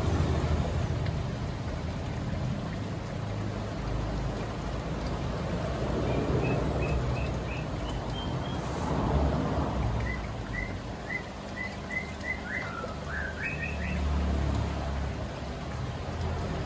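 A small songbird chirping in two runs of short high notes: the first climbs in pitch, the second repeats about two notes a second and ends in a quick flourish. Underneath are a steady low rumble and water sloshing as hands work in a basin.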